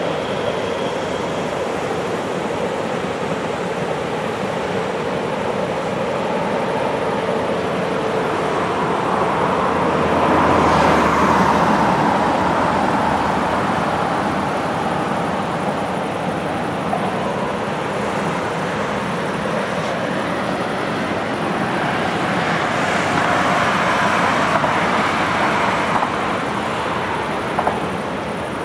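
Distant freight trains rolling along the curving Gotthard line: a continuous rumble of wheels on rail that swells about ten seconds in and again near the end as the trains pass.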